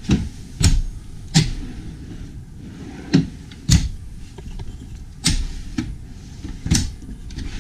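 Kitchen drawers and cabinet doors in a motorhome being pulled open and shut one after another, giving about seven sharp knocks and clicks.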